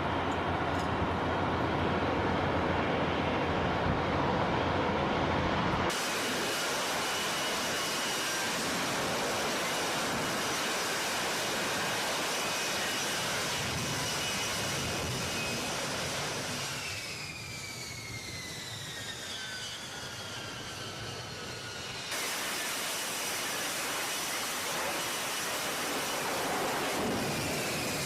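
F-35B Lightning II jet engine roaring at high power, with a high whine falling in pitch past the middle and again near the end. The sound jumps abruptly about six seconds in and again about twenty-two seconds in.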